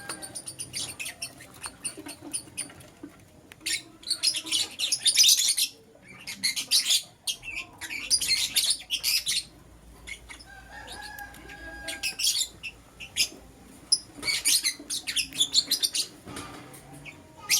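Lovebirds chattering in bursts of rapid, shrill chirps, several clusters a second or two long with short pauses between.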